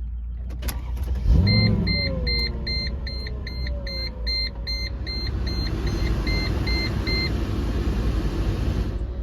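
Mercedes SLK55 AMG's M113 V8 starting about a second in, flaring briefly and settling into a steady idle. Meanwhile a dashboard warning chime beeps about three times a second for several seconds.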